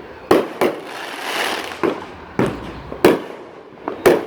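Fireworks bursting: a series of about seven sharp bangs at uneven intervals, two in quick succession near the end, with a hissing crackle about a second in.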